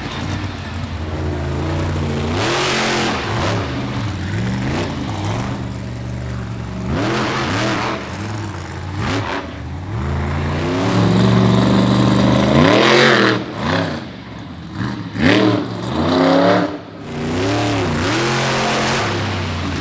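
Lumberjack monster truck's engine revving hard through a freestyle run, its pitch climbing and falling again and again, with short throttle lifts in the second half.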